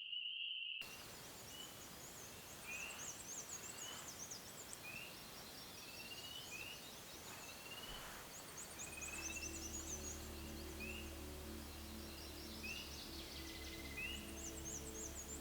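Birds singing: one repeats a short rising note about once a second while others twitter rapidly and high. A steady insect trill cuts off under a second in, and soft background music comes in about nine seconds in.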